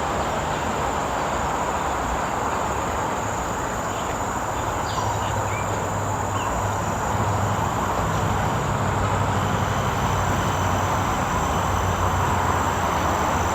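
Steady outdoor ambience: an even rushing noise with a low hum, under a continuous high-pitched insect drone. A few short bird chirps come about five seconds in.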